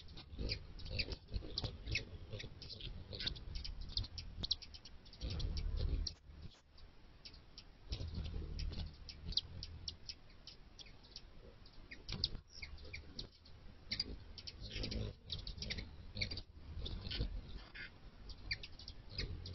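Small birds chirping: many short, quick chirps coming irregularly, over a low rumble that swells for a second or so about five seconds in.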